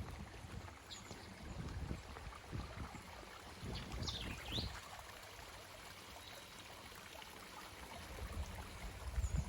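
Creek water flowing and trickling over rocks in a gentle cascade. A bird gives two quick sweeping calls about four seconds in, and there are some low thumps on the microphone.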